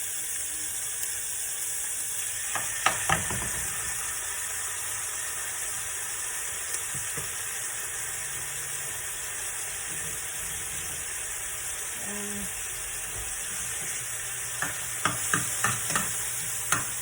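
Chopped onion sizzling steadily in hot oil in a frying pan, with sharp clicks of a utensil against the pan about three seconds in and several more over the last couple of seconds as it is stirred.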